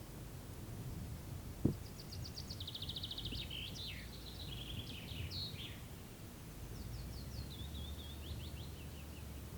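Songbirds singing: a varied phrase of fast trills and slurred notes starts about two seconds in and lasts about four seconds, then a shorter phrase of repeated notes comes near the end. Underneath runs a low steady rumble, and a single short thump comes just before the first phrase.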